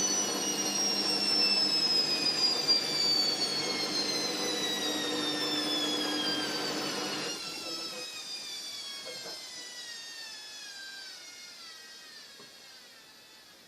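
Fagor front-loading washing machine winding down at the end of a spin: a whine that falls steadily in pitch as the drum slows. About halfway the motor hum cuts out and the drum coasts down, fading away.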